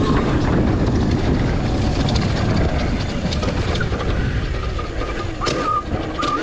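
Revolt electric dirt bike being ridden: a thin motor whine that shifts in pitch over a loud, steady low rumble of wind and tyres. A few sharp clicks come about five and a half seconds in.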